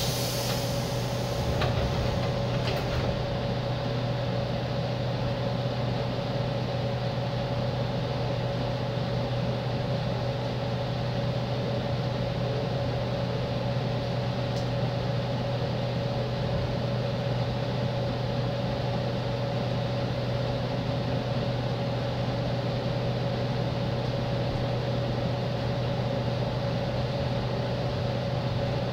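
Steady hum inside a JR East 205 series electric commuter car, with a constant mid-pitched tone over a low drone and even rumble. A short rustle comes in the first few seconds.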